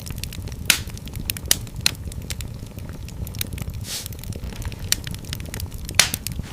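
Wood fire in a fireplace crackling, with scattered sharp pops over a steady low rumble of the flames; the loudest pops come just under a second in and near the end.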